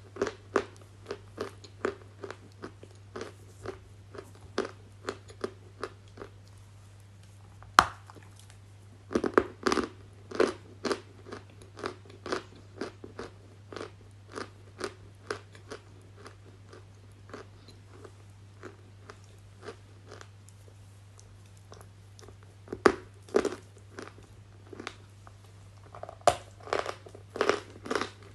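Close-miked crunching of something brittle: sharp crunches about two a second, with louder, denser clusters about a third of the way in and again near the end, over a faint low hum.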